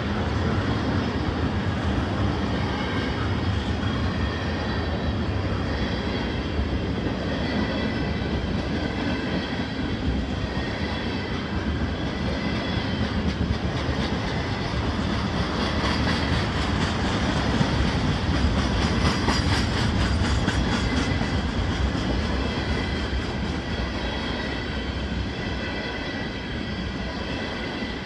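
Freight train of tank cars rolling past: a steady rumble of steel wheels on rail with a clickety-clack of the car trucks, swelling a little louder about two-thirds of the way through.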